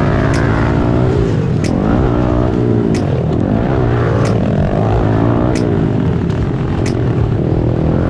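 Small single-cylinder four-stroke pit bike engines revving on a motocross track, the pitch rising and falling again and again with throttle and gear changes.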